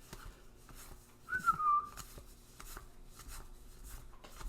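A short whistled note, a little under a second long, sliding slightly down in pitch about a second in, over faint clicks from cards being handled.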